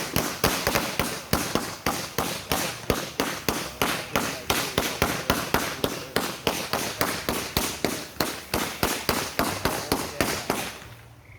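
Firework going off in a rapid, regular string of sharp cracks, about four to five a second, that stops suddenly about a second before the end.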